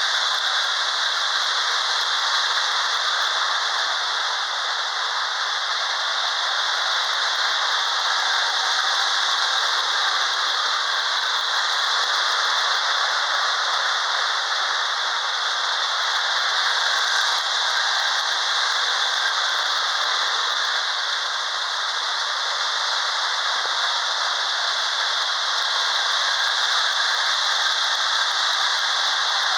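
Lionel model train running around the layout's track: a steady rattling whir of wheels and motor on the rails, swelling and fading slightly about every eight seconds.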